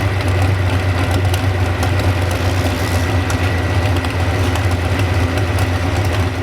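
Modified 4x4 pulling truck's 1,600-horsepower engine running steadily at a loud, deep idle.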